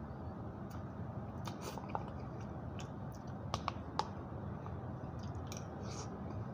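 A person chewing and eating a mouthful of macaroni, with a few sharp clicks around the middle, over steady low background noise.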